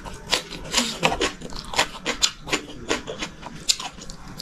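Close-up eating sounds: wet chewing and lip-smacking, a run of short irregular clicks several times a second.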